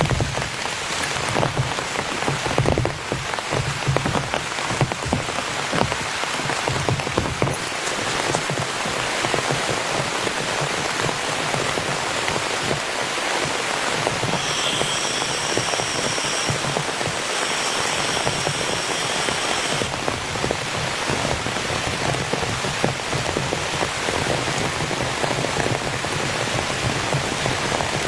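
Heavy rain falling on a tent: a dense, steady hiss with many separate drops hitting the fabric.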